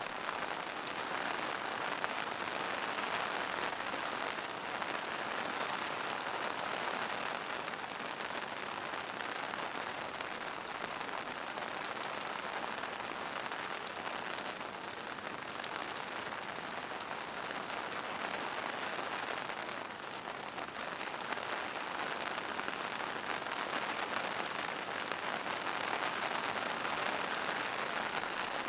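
Steady rain falling on a forest, a dense hiss of drops on leaves and rocks with fine pattering, swelling and easing slightly.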